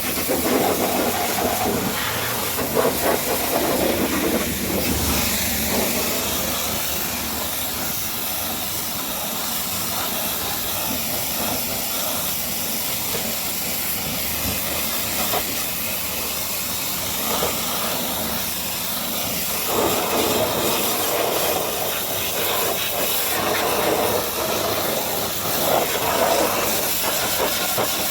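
High-pressure water spray from a pressure washer, hissing steadily against a truck's bodywork, its sound shifting now and then as the jet moves over different surfaces.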